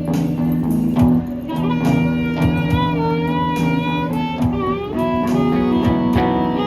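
Live band playing the instrumental intro of a blues-tinged song: held guitar chords over a steady drum beat, with a lead melody of bent, wavering notes coming in about a second and a half in.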